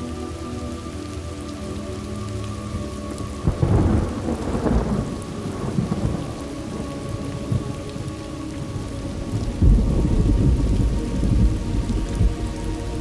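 Thunderstorm: steady heavy rain, with a sudden thunderclap about three and a half seconds in and a deep rolling rumble of thunder starting near ten seconds that lasts to the end.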